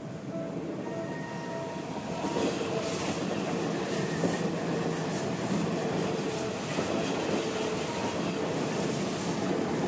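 Commuter train passing close by at a level crossing, its wheels clattering over the rail joints about twice a second. It grows louder about two seconds in. Before that, the crossing's warning bell rings as a steady pulsing tone.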